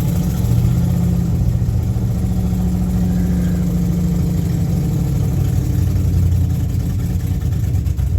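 Car engine running steadily at a fast idle after a cold start, held above normal idle so the reluctant, freshly repaired engine does not stall.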